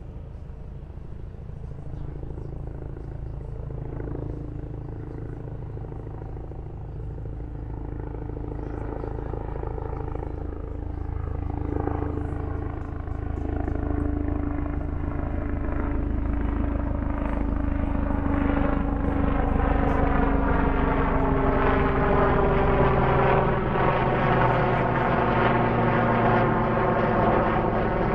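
Helicopter approaching and flying close by, its engine and rotor growing steadily louder.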